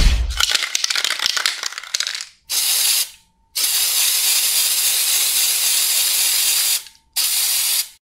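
Aerosol spray-paint can: about two seconds of rattling, as if the can is being shaken, then three bursts of spraying hiss, a short one, a long one of about three seconds and another short one.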